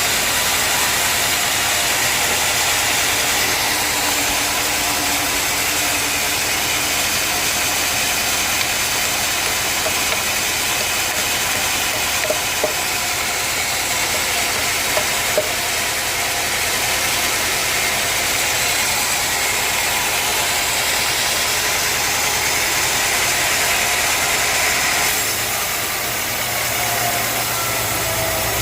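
Sawmill machinery running steadily, an engine-driven saw with a constant broad hiss. Near the end the sound changes and a low hum comes in.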